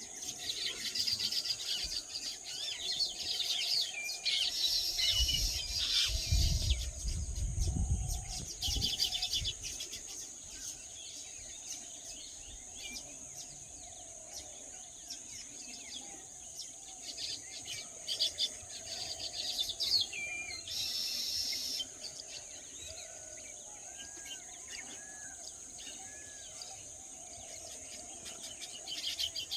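Small birds chirping in quick bursts over a steady high insect drone, with a low rumble for a few seconds near the start.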